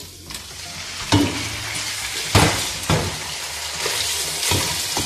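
Raw chicken pieces going into a pot of sausage and sofrito frying in oil, setting off a sizzle that picks up about a second in. A wooden spoon scrapes and stirs, with a few sharp knocks against the pot.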